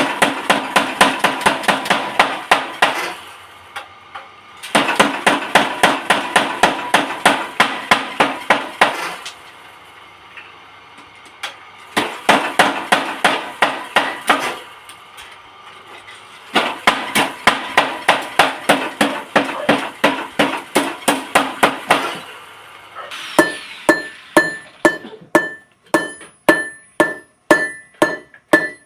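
Hand hammer forging leaf-spring steel on an anvil: quick runs of strikes at about four a second, broken by short pauses. Near the end the blows come slower and each leaves a clear ringing tone.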